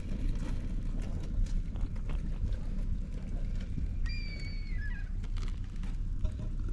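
A steady low rumble with scattered clicks. About four seconds in, a bird gives one high, slightly falling call, followed by a short lower note.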